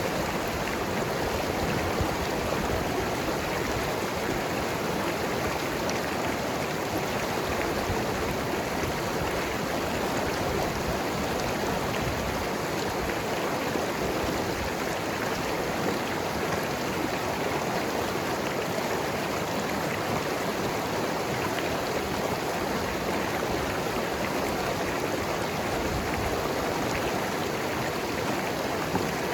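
Mountain river rushing and gurgling over rocks: a steady, even wash of running water.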